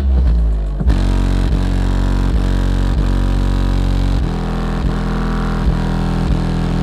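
Bass-heavy music played very loud through a car audio system's subwoofers. It has a deep, steady bass note with a beat about every 0.7 seconds, and the bass line shifts about four seconds in.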